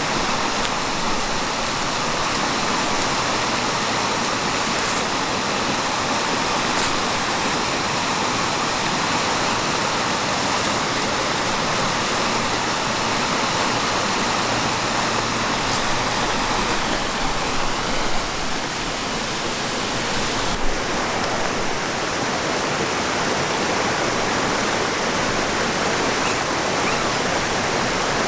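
A river flowing with a steady rushing sound, and a single dull thump about two-thirds of the way through.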